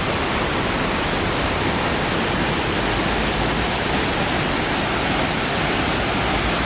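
Steady, unbroken rush of falling water from a 70-foot waterfall.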